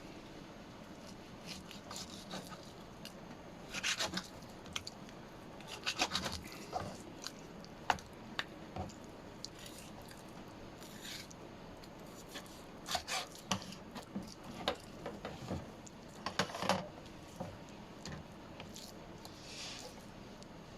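Faint, irregular rubbing and scraping with small clicks and knocks as cooked chicken meat is taken off the bone during food preparation.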